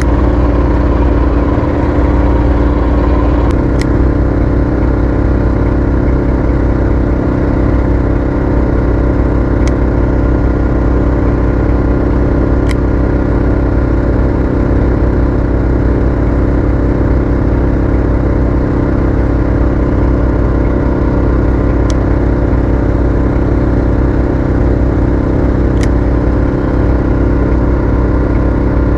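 Boat engine running steadily with an even, unchanging note. A few faint sharp ticks are heard now and then.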